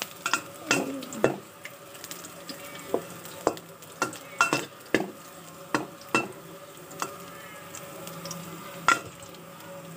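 Sliced shallots sizzling in oil in a stainless steel pot, with irregular clinks and scrapes of a metal spatula stirring against the pot about once or twice a second. The shallots are being sautéed until fragrant.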